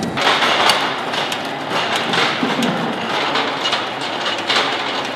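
Irregular metallic clanking and knocking over a steady rushing noise: 20 mm ammunition being loaded into an M61 Vulcan autocannon.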